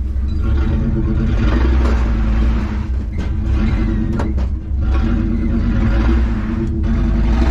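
Truck engine running hard under load, rising and falling as it pushes, with a few brief knocks.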